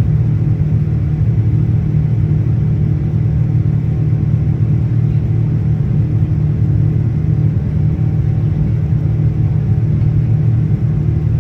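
Steady low drone inside the cabin of a Boeing 787-9 airliner under way: its engines and the rush of air, heard from a passenger seat.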